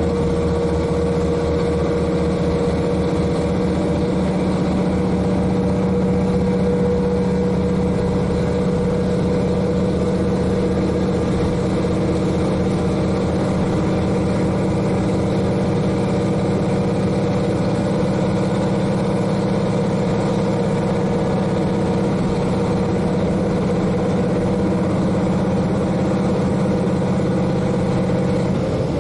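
KiHa 40 diesel railcar's N-DMF13HZI engine running steadily at a constant pitch, heard from directly above the engine. Near the end its note drops away.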